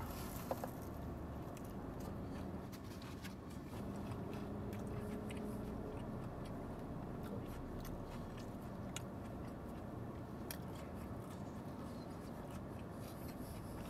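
A person biting into and chewing a mouthful of taco, with faint wet mouth clicks. A steady low hum runs underneath.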